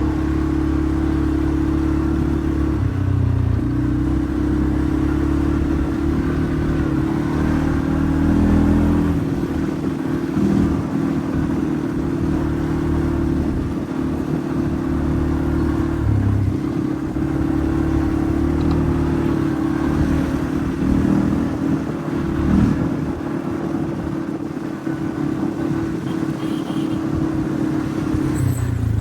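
Quad bike engine running under way, a steady drone whose pitch steps up and down a few times with the throttle.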